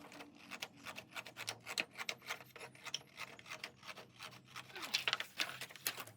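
Rapid, irregular scraping and rubbing strokes against a hard surface, as in hand scraping or sanding a part, with a louder run of strokes about five seconds in.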